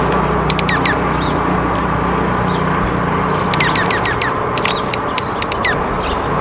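Small birds chirping: short, high calls that drop sharply in pitch, coming in quick runs of several, over a steady low background rumble.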